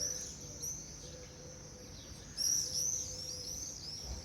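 A flock of birds calling overhead: many short, high-pitched chirps that come thickest at the start and again about two and a half seconds in.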